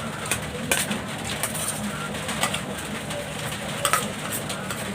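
Chowmein being eaten fast: several sharp clicks of utensils against a plate. Pigeons coo steadily in the background.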